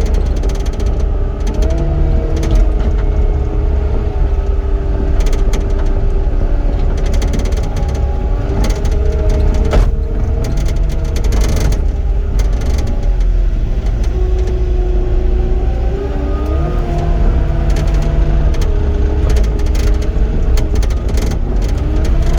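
Cat 259D compact track loader's four-cylinder diesel running steadily, its whine rising and falling several times as the machine drives and works, with scattered knocks and rattles from the machine.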